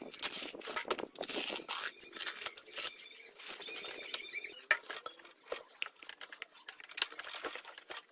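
Metal tools and small metal parts being handled: an irregular run of clinks, taps and scrapes.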